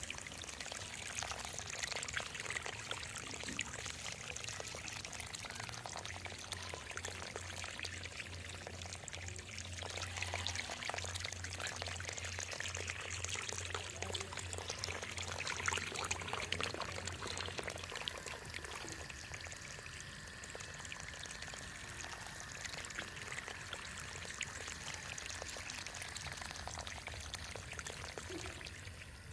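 Water pouring and splashing steadily from the outlet of a small homemade motor-driven water pump. A faint low hum runs under it from about six seconds in until about eighteen seconds in.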